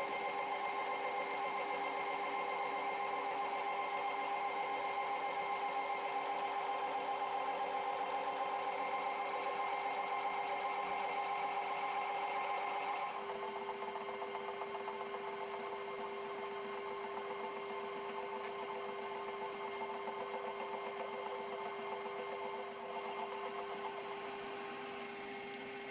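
Metal lathe running with a carbide insert taking an interrupted cut through a rough flame-cut steel surface, a steady machine hum with a held tone. The sound changes abruptly about halfway through.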